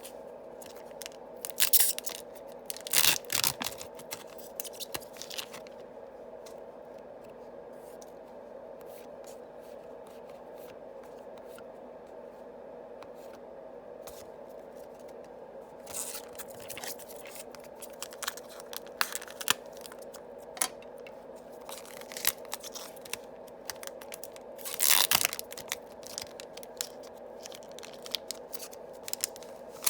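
Yu-Gi-Oh! booster packs being torn open and their cards handled: bursts of foil crinkling and ripping, loudest about three seconds in and again near twenty-five seconds, over a steady background hum.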